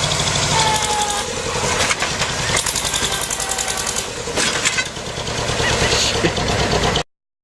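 A heavy vehicle's engine running hard with a fast, even pulse, with faint voices in the background. The sound cuts off suddenly about seven seconds in.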